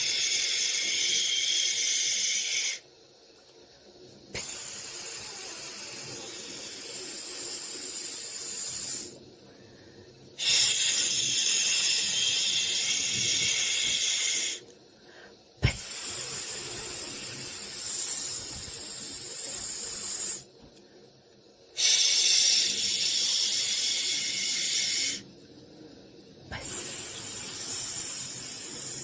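Soothing white-noise hiss, weighted toward the high end, running in stretches of four to six seconds with short breaks of about a second and a half between them. A sharp click comes just before one stretch starts, about halfway through.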